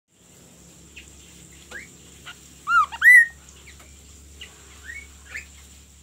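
Caged songbird calling with a few short chirps and two loud, curved, chicken-like notes about three seconds in.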